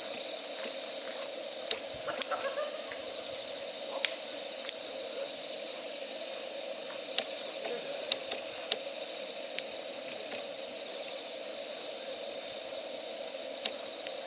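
Wood campfire burning in a fire stand, crackling with scattered sharp pops over a steady high hiss.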